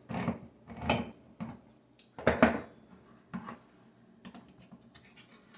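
Knocks and clicks of a can of refried beans being handled on a kitchen counter, with a louder knock about two and a half seconds in, then lighter ticking.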